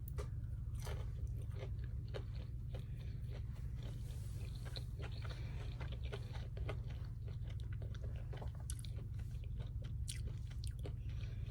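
A person chewing a chicken nugget close to the microphone: many short, crisp mouth clicks and smacks, over a steady low hum.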